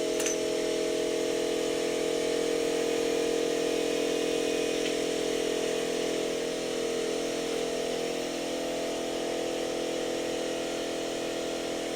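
Air compressor running with a steady hum, building up air pressure for the air ratchet.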